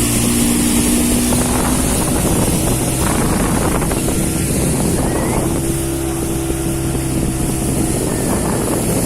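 A speedboat's 40 hp outboard motor running steadily at speed, with the rush of water and wind noise on the microphone.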